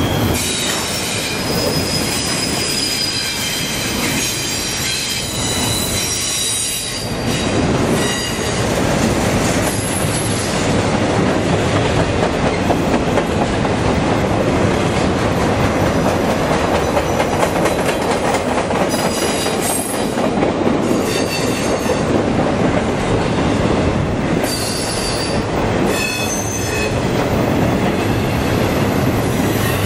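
Norfolk Southern intermodal freight train's double-stack well cars and trailer flats rolling past, steel wheels on rail giving a steady rumble. High-pitched wheel squeal comes and goes several times.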